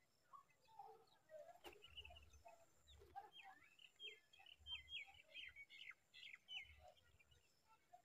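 Faint bird chirping: many short, high chirps in quick series, busiest in the middle, with a few lower calls and one sharp click about two seconds in.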